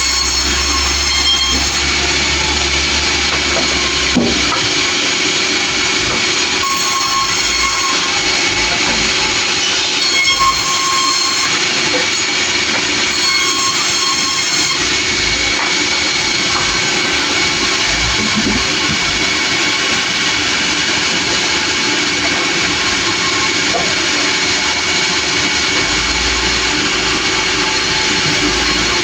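Sawmill running and cutting wood: a loud, steady machine noise with a high whine, and three brief passages of a higher, squeal-like tone.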